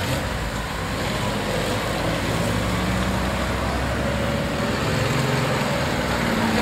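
Porsche sports car engines running at low revs as cars pull away one after another, a steady engine drone that grows slightly louder.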